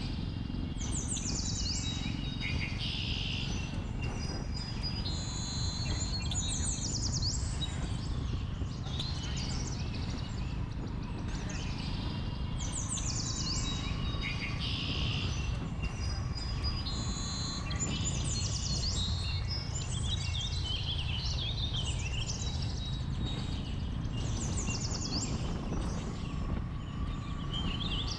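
Jawa 42 motorcycle riding downhill on a forest road: a steady low rumble of engine and wind noise, with many birds singing and calling over it, a few short calls every couple of seconds.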